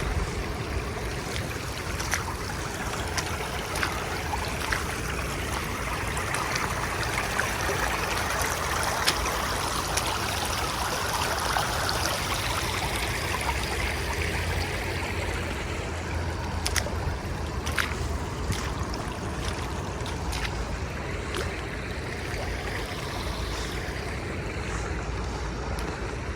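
Floodwater rushing and gurgling through a breached beaver dam into a blocked culvert, swelling a little partway through, with a low steady rumble underneath and scattered clicks and knocks.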